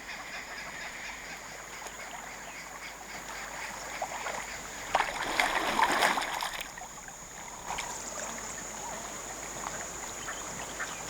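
Water splashing as zebras and impalas wade and drink in a shallow water hole, loudest for a couple of seconds near the middle.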